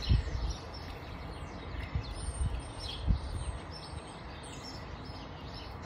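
Small birds chirping now and then over steady outdoor background noise, with a few dull low thumps.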